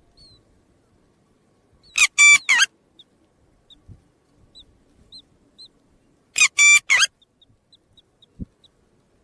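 A bird gives two loud bursts of three sharp calls each, about four seconds apart, while faint high peeps come in between, typical of chicks.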